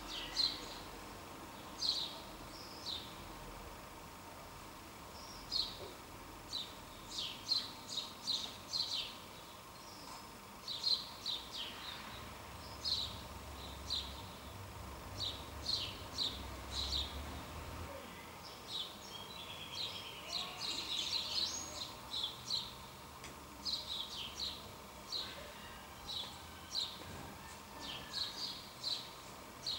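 Small birds chirping: many short, high chirps repeated all through, with a longer warbling phrase about two-thirds of the way in. A faint low rumble comes and goes in the middle.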